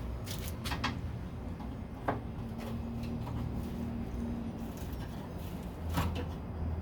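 Scattered light clicks and taps of hand tools and small parts being handled on a car door, over a steady low hum.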